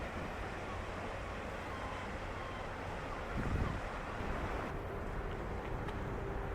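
Ferry under way: a steady low engine hum under wind noise on the microphone and rushing water, with a steady tone coming in about five seconds in.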